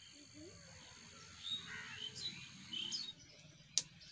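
Birds chirping in a quick run of short calls, then a single sharp click near the end.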